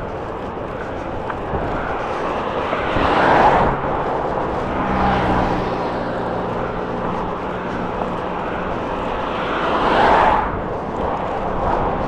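Strong wind rushing over the microphone, with two vehicles passing on the road, the louder about three and a half seconds in and the other around ten seconds in. A low engine hum is heard in between.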